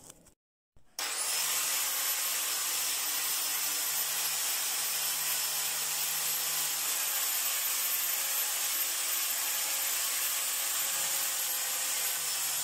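Electric power tool spinning a wire cup brush against an iron anvil, scouring off rust and old paint: a steady harsh hiss with a thin high whine, starting abruptly about a second in.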